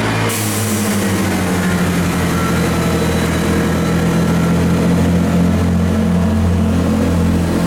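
A diesel train's engine running steadily at close range: a loud, deep, even drone that holds its pitch.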